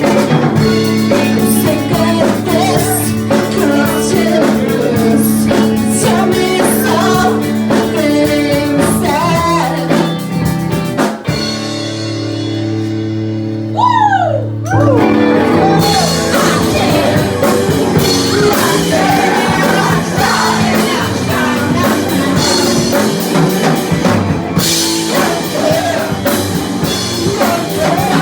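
Live rock band playing with sung vocals and a drum kit. Around the middle the drums drop out for a few seconds under sustained low notes and a falling pitch sweep, then the full band comes back in.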